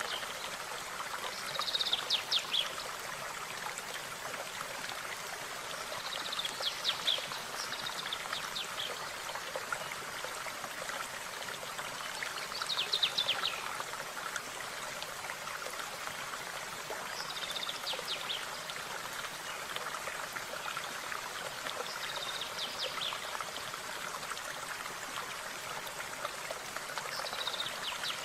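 Steady flow of a running stream, with a small bird singing short, rapid trilled phrases every few seconds.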